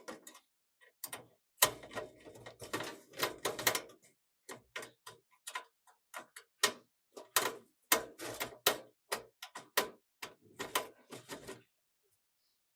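Hands working on computer hardware: a run of irregular clicks and knocks with a couple of brief scraping rustles, stopping near the end.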